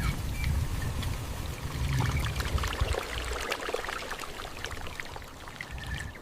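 Water pouring and splashing, with a low rumble underneath that fades after about three seconds.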